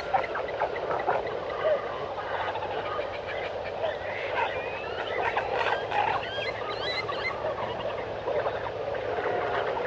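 Jungle ambience: a dense, unbroken chorus of birds and frogs calling, with many short chirps and a cluster of rising and falling whistled calls around the middle.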